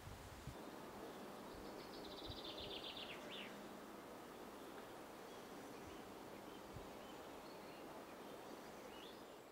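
Faint outdoor ambience with a bird singing one short, rapid trill about two seconds in.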